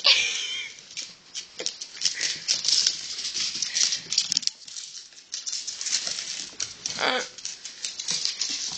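A pomchi puppy and a cockatoo at play: quick pattering and scrabbling of claws and feet, with a short call at the very start and another about seven seconds in.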